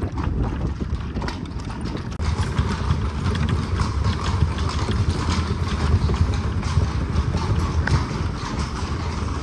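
Carriage horse's hooves clip-clopping at a walk, an irregular run of close hoof strikes over a steady low rumble of the horse-drawn carriage rolling along.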